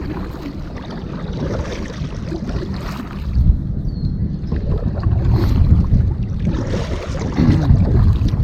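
Sounds of a kayak on the water picked up by a GoPro's built-in microphone: a steady low rumble of wind on the mic with water moving and gurgling around the hull, growing louder about three seconds in.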